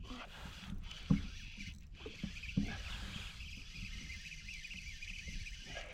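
Kayak on the water: water sloshing against the hull under a steady low rumble, with a few sharp knocks about a second in and again near two and a half seconds.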